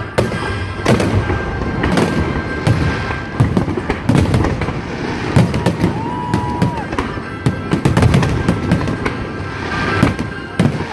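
Fireworks bursting in quick succession, many sharp bangs a second over a continuous rumble, with a show soundtrack of music playing underneath.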